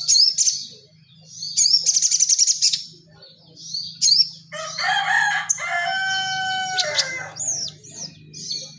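A sogon songbird singing in bursts of rapid, high chirps and trills. A rooster crows once in the background from about halfway in to about three quarters of the way through.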